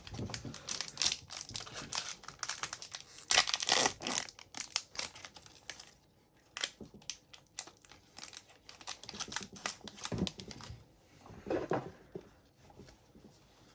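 A foil hockey card pack wrapper crinkling and tearing open, with a loud stretch of crackling about three seconds in, then sparser rustles as the cards are handled.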